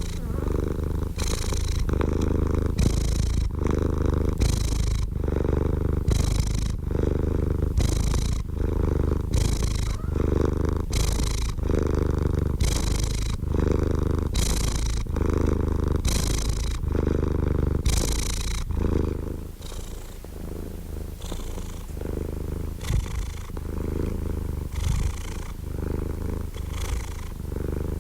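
Domestic cat purring close up, a continuous low rumble that swells and eases with each in and out breath in an even rhythm. It turns softer about two-thirds of the way through.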